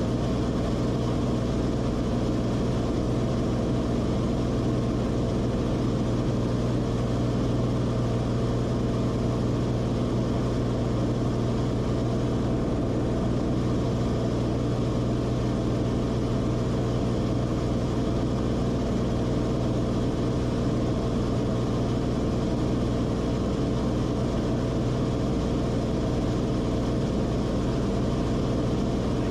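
Cessna Corvalis TTX's turbocharged six-cylinder engine and propeller running steadily. It is a constant drone heard from inside the cockpit, with no change in power.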